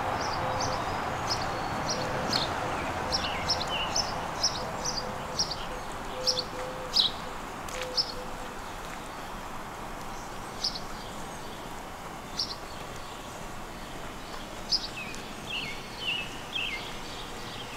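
Songbirds chirping: many short high notes, some sliding down in pitch, thicker in the first half and again near the end, over a steady background hiss.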